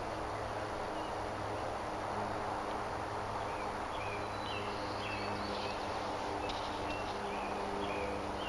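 Outdoor ambience: a steady hiss with a faint low hum under it, and short high bird chirps repeating from about two and a half seconds in.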